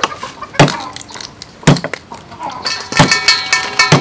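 About five sharp knocks, roughly a second apart, with a ringing tone in the last second or so.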